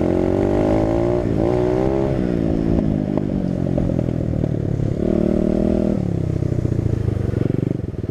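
Small dirt bike engine running and being revved, the pitch rising and falling in the first couple of seconds and climbing again about five seconds in, dropping back to a lower, even running note between.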